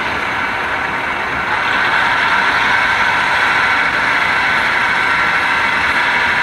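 Diesel engine sound of a sound-fitted OO gauge Class 153 railcar model idling, played through the model's small speaker, getting somewhat louder about a second and a half in.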